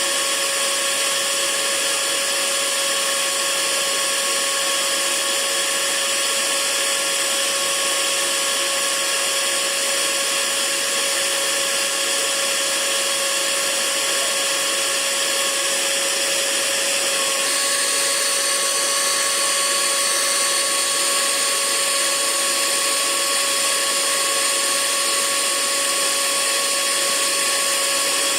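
Hair dryer running steadily: a constant rushing hiss with a steady hum. The hum's pitch shifts slightly a little past halfway.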